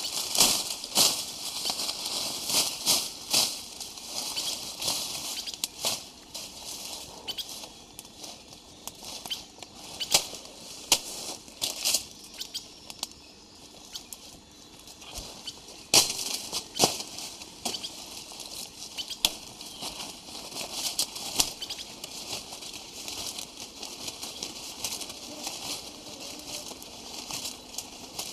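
Irregular crackles, taps and rustling, some sharp and loud, with a faint steady high whine underneath.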